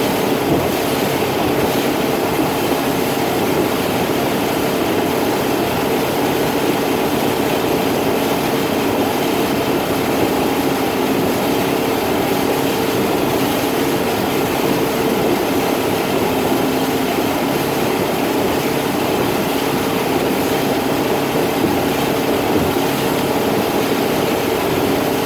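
Motorboat engine running steadily under way, with a constant rush of noise over it.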